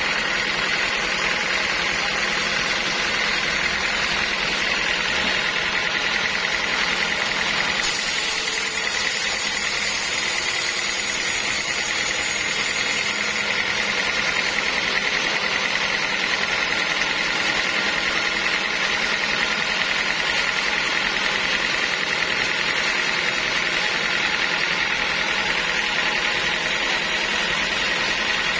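Sawmill saw machinery running steadily, a continuous mechanical drone with a steady high whine. An added high hiss comes in about eight seconds in and fades about five seconds later.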